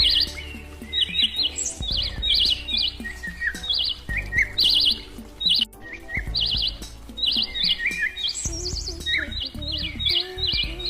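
Birds chirping in repeated quick runs of short, high notes, with lower sliding calls between the runs, over a steady low hum.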